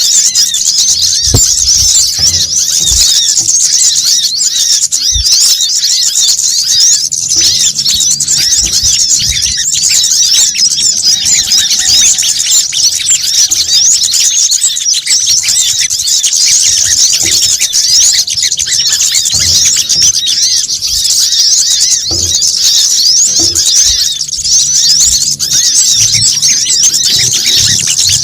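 Dense, continuous chattering of many overlapping short, high-pitched chirps from sunbirds, played as a lure call.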